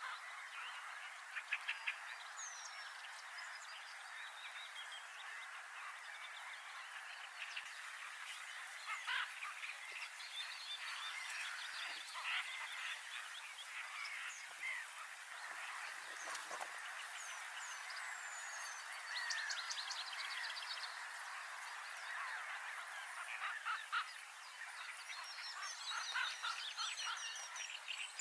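Small birds chattering and chirping in a dense, continuous chorus of short trills, with thin high whistles sliding downward now and then.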